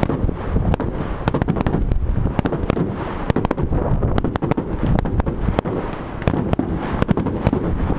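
Fireworks display: a rapid, irregular string of sharp bangs and crackles, several a second, over a continuous low rumble.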